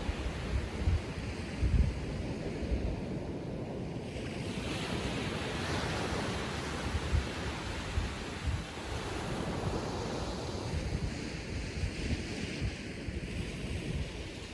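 Small Atlantic waves breaking and washing up the beach in a calm sea, the wash swelling about five seconds in and again near the end. Low wind gusts rumble on the microphone near the start.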